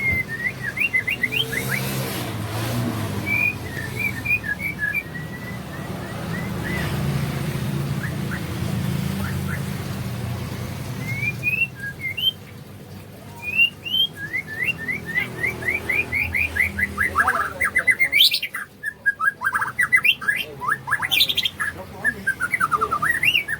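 A songbird singing a long, varied run of short whistles and chirps that grows into fast trills in the second half. A low rumble sits under the song in the first half.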